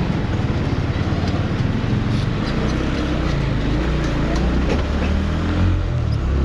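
Motorcycle engine running continuously, a low steady drone.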